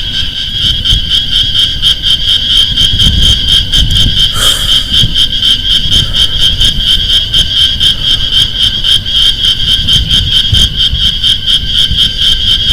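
Loud night chorus of calling animals: a high, rapidly pulsing trill that keeps going without a break over a low rumble, with a short rising call about four and a half seconds in.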